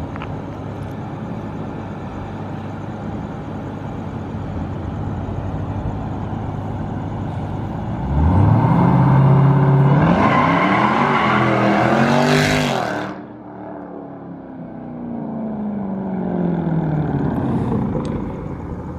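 Supercharged 6.2-litre V8 of a Jeep Grand Cherokee Trackhawk at full-throttle launch: a steady rumble, then a loud rising howl under hard acceleration from a little before halfway, with a brief dip as it shifts gear. The sound cuts off sharply as the throttle is lifted, leaving a slowly falling tone as the Jeep slows.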